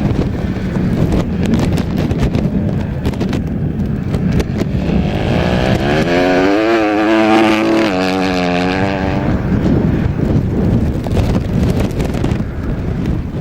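A small racing engine comes up, its pitch rising about five seconds in, runs at high revs with a wavering pitch for a few seconds, then fades, over a constant rough rumbling noise.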